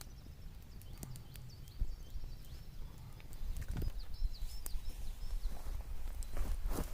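Outdoor ambience: small birds chirping repeatedly over a low, steady rumble, with scattered clicks and crunches that come thicker and louder in the second half.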